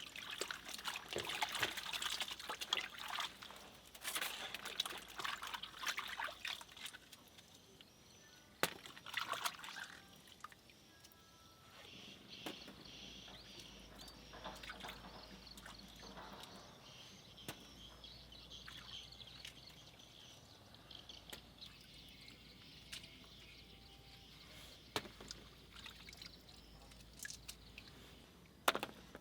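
Water splashing and trickling in irregular bursts for about the first ten seconds, then a fainter steady trickle with occasional clicks.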